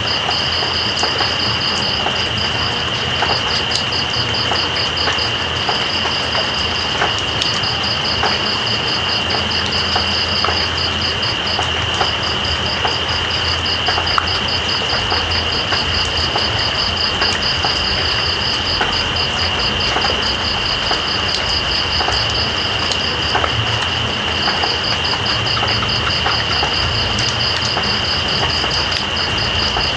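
Steady rain with night insects calling: one continuous high buzz and, above it, a fast pulsing trill that pauses briefly now and then, with scattered drips.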